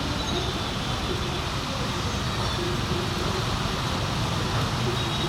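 Steady mechanical rumble and noise with no clear breaks.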